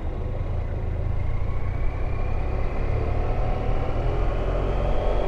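Motorcycle engine running under a heavy low wind rumble, its pitch rising steadily from about a second and a half in as the bike accelerates.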